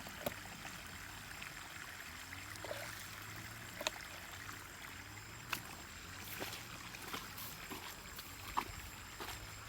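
Stream water running steadily, with a few short, sharp knocks or splashes scattered through it.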